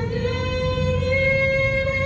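A vehicle engine held at high revs in a burnout, a loud, steady high-pitched tone that rises slightly about a second in.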